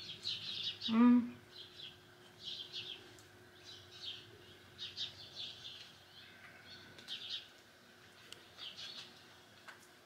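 Small birds chirping: short clusters of quick, high chirps that repeat every second or so, with a brief voiced sound from a person about a second in.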